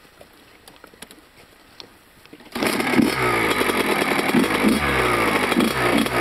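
A motocross bike's engine revving up and down, cutting in suddenly about halfway through after a quiet stretch with a few faint ticks.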